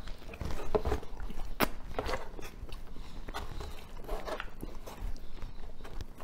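Close-up sound of a person biting and chewing pizza: irregular wet mouth clicks and soft crunches.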